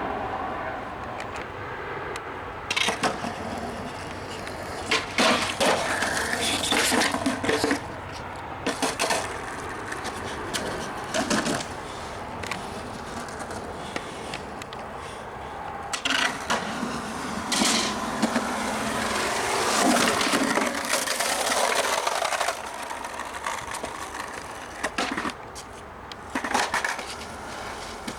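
Skateboard wheels rolling, broken by repeated sharp clacks and slaps of the board as tricks are popped and landed.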